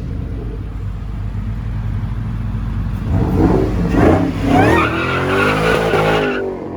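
High-performance muscle-car V8 idling with a low rumble, then revved hard about three seconds in, its pitch rising and falling several times before the sound ends abruptly near the end.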